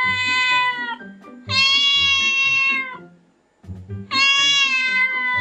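Long drawn-out cat meows, each held about two seconds at a steady pitch, three in a row, over background music with a beat.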